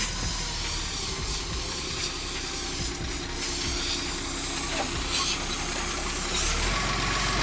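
Forklift engine running steadily, with a hiss over it.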